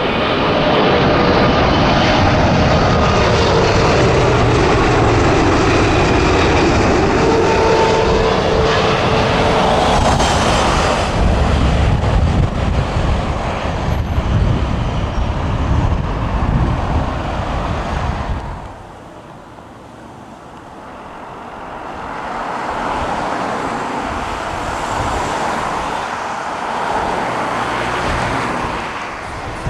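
Jet noise from a Boeing wide-body airliner passing close by, loud and sweeping for about eighteen seconds. It drops off suddenly, then another jet's noise builds up again.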